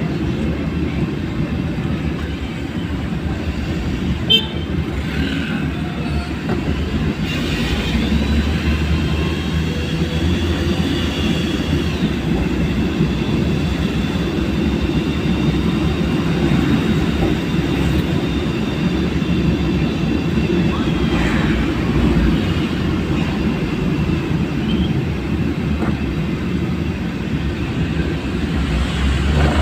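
Steady vehicle road noise: low engine rumble and tyre and road hiss. A thin high whine is held for about thirteen seconds in the middle, and there is a single sharp click about four seconds in.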